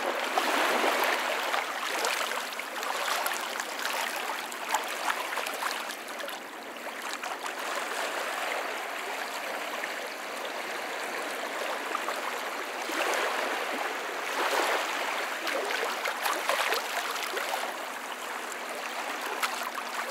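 Small waves washing and splashing over the stones of a breakwater at the water's edge, a steady rushing that swells and eases, loudest near the start and again about two-thirds through.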